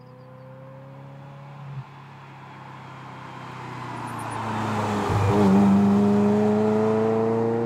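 Ferrari F355 Challenge's V8 approaching from a distance, passing close by and pulling away. The engine note grows steadily louder, is loudest just after it passes about five seconds in, and dips in pitch at the pass, then rises in pitch as the car accelerates away.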